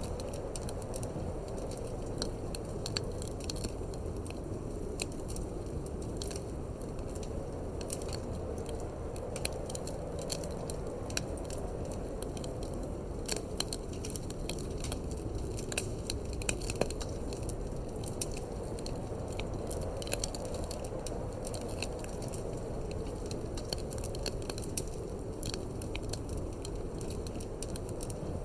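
Wood fire crackling, with many small irregular pops and snaps, over a steady low rush of wind.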